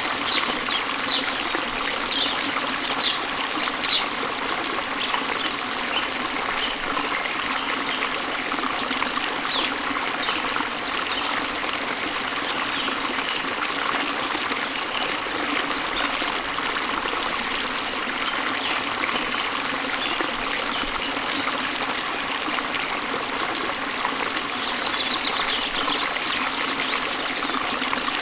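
Waterfall water rushing steadily, with birds chirping in quick repeated notes during the first few seconds and again near the end.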